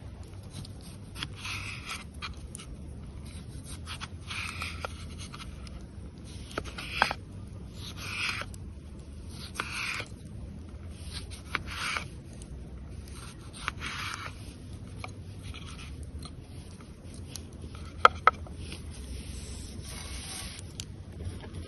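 A series of rough scraping strokes, about ten, spaced a second or two apart, with two sharp clicks in quick succession near the end.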